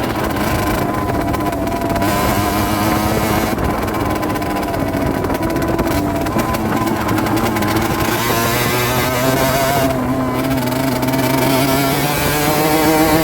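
Rieju Drac 50's 50cc two-stroke engine running under way at fairly steady revs, its pitch wavering slightly with the throttle.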